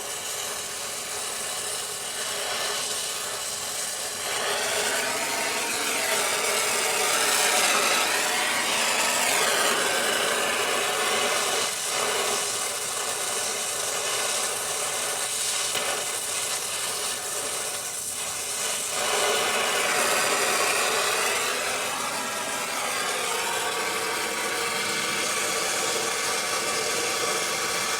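A steady rasping, grinding noise of tool work, louder in stretches and easing off in between.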